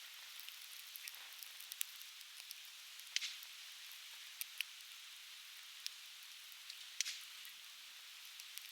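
Softwood campfire crackling in an open fire pit: frequent small sharp pops over a steady hiss, with two louder cracks about three and seven seconds in.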